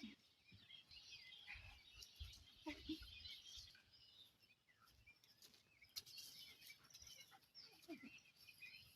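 Near silence with faint birds chirping here and there.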